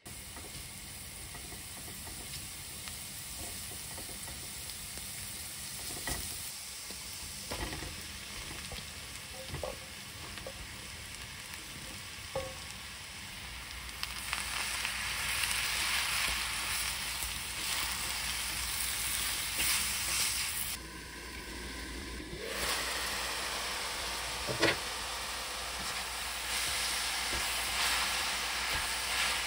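Minced garlic sizzling in olive oil in a frying pan, with a few light spatula taps. About fourteen seconds in, sliced shiitake mushrooms and water go into the hot pan and the sizzling grows louder as they are stirred, with a sharp knock against the pan near the end.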